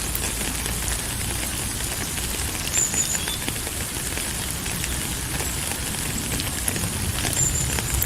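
Steady rainfall, a dense patter of many small drops with fine crackling clicks.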